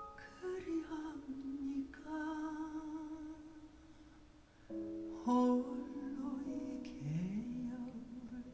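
Recorded music played through Wharfedale Linton Heritage loudspeakers driven by a Primare i15 Prisma integrated amplifier, picked up at the listening position in the room. A voice holds long wordless notes over soft instrumental accompaniment, with a rising sliding note about seven seconds in.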